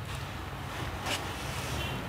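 Steady low rumble with a haze of wind noise on the microphone, and one brief click about a second in.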